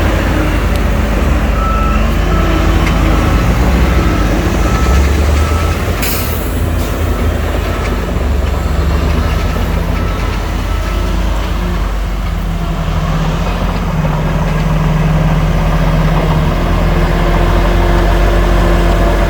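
Dump truck reversing: its backup alarm beeps at one pitch about twice a second, starting about two seconds in and stopping about halfway through, over the steady low running of heavy diesel engines. A short air-brake hiss comes about six seconds in.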